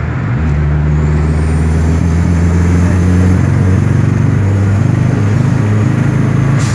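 Dodge SRT-4's turbocharged 2.4-litre four-cylinder engine pulling under about 13 psi of boost, heard from inside the cabin as a loud, steady low drone.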